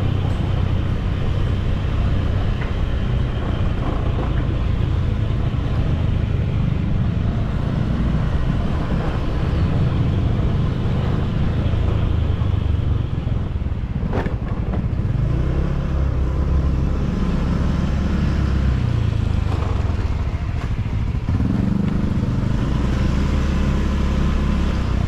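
Motorcycle engine running while under way, its note stepping up and down several times, over a steady rush of noise. A sharp click comes about halfway through.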